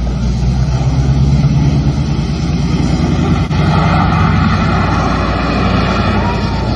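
A car running and driving along, heard from inside the cabin: a steady engine and road rumble with a constant whine over it.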